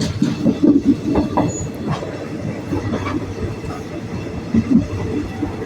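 Passenger train running along the line, heard from on board: a steady low rumble with irregular rattling and clatter from the wheels and carriage.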